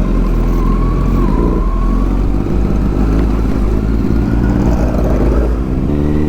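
Motorcycle engine running steadily under way, with a heavy low wind rumble on the microphone; the engine note steadies into a clean, even hum near the end.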